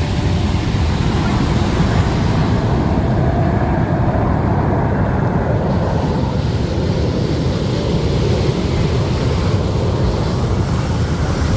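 Steady jet noise from the Frecce Tricolori's Aermacchi MB-339 jets flying over, with a deep rumble underneath. The hiss in the upper range thins out for a few seconds around the middle and comes back.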